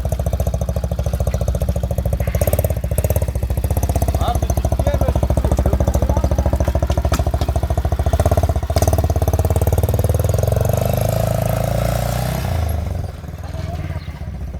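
A vehicle engine running close by with a rapid, even beat. Near the end its pitch shifts and the sound drops away as the vehicle moves off.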